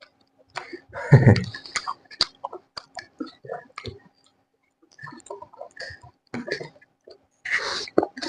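A person eating close to the microphone: irregular wet chewing clicks and mouth smacks, with a louder sound about a second in and a hissy burst near the end.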